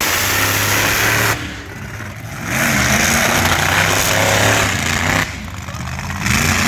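Monster truck engine running hard at high throttle, dropping back twice for about a second each time before coming back up.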